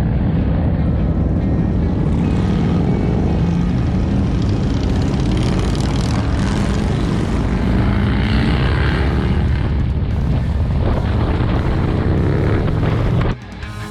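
Harley-Davidson V-twin motorcycle running at speed with wind noise over the helmet-mounted mic, its engine pitch rising and falling a little in the middle. It cuts off abruptly shortly before the end.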